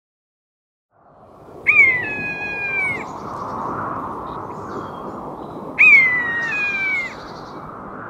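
A bird cries out twice, each cry a long call of over a second that starts sharply, slides a little lower and holds before falling away at the end. Under it runs a steady rushing outdoor background that fades in about a second in.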